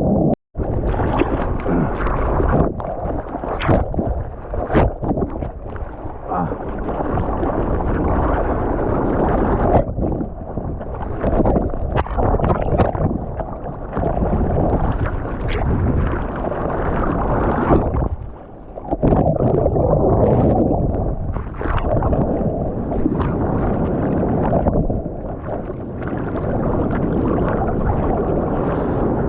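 Water splashing and churning around an action camera in the surf, with wind buffeting the microphone. The sound cuts out completely for a moment about half a second in.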